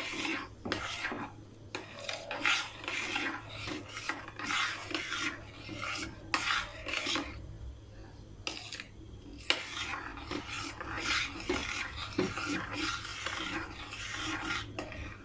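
A utensil stirring and scraping around a pan of mirror-glaze mixture (cream and gelatin) as it heats on the stove, in repeated irregular strokes.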